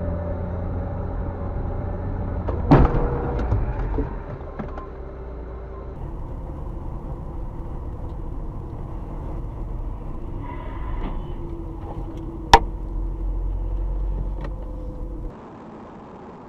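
Car running with a steady engine and road rumble, broken by a loud knock about three seconds in and a sharper, louder bang about twelve seconds in. The rumble cuts off abruptly near the end.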